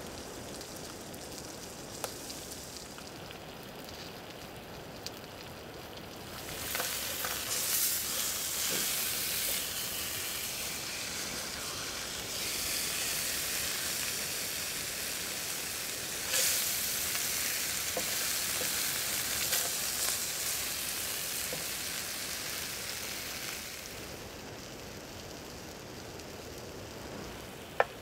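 Puffball mushroom pieces and a piece of fish sizzling as they fry in oil in a pan, stirred with a spatula. The sizzle swells about six seconds in and eases off near the end.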